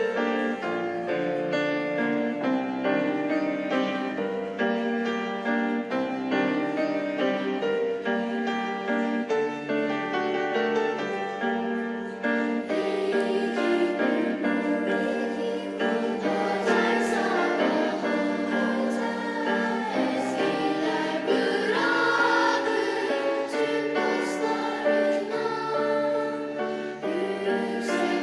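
A children's choir singing a part-song with piano accompaniment; the sound grows fuller and brighter about halfway through, with a few short sharp strokes in the second half.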